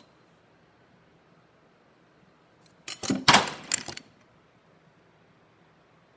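Small metal parts clinking and rattling together as they are handled, a burst of about a second some three seconds in.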